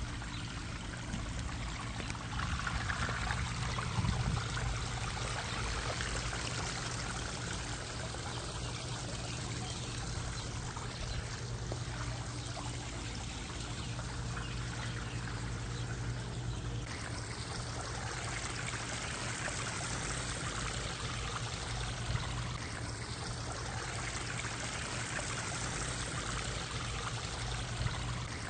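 Water steadily trickling and splashing from a backyard pond's waterfall and fountain, with a steady low hum underneath.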